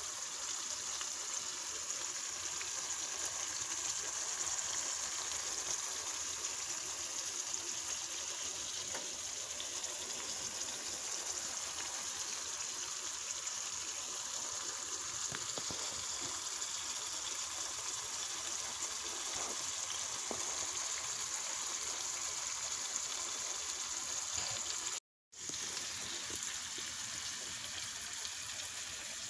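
Shrimp sizzling in bubbling butter sauce in a pan: a steady frying hiss with fine crackle, cutting out briefly about 25 seconds in.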